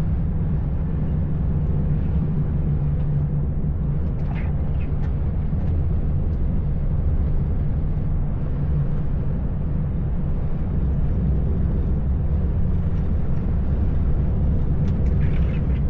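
Truck engine running steadily under way, a constant low drone mixed with road and wind noise while driving in strong wind.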